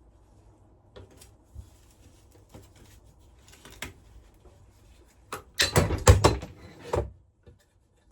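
Hand-dismantling of an electric metal-melting furnace: a few light clicks as parts are handled, then a loud clatter of sharp knocks and scraping about five and a half seconds in as a part that is stuck on from the heat is worked loose.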